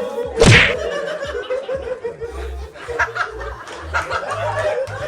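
A group of people laughing over background music with a steady beat, with a single sharp smack about half a second in.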